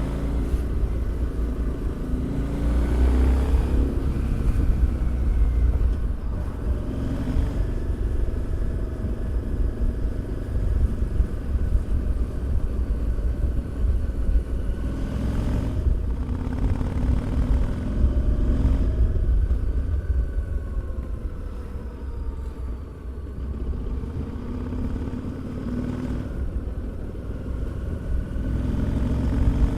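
Harley-Davidson Street 750's 750 cc V-twin engine and exhaust under way on a ride, rising and falling in pitch several times as the rider accelerates and eases off.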